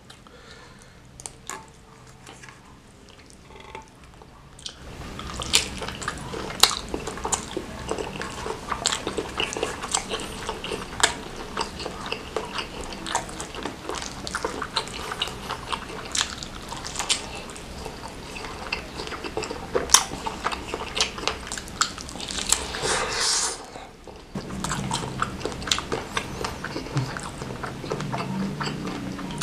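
Close-miked biting and chewing of a beef-tendon meatball (bakso urat) in chili sauce: many sharp wet clicks and smacks, starting about five seconds in, with a short pause near the end.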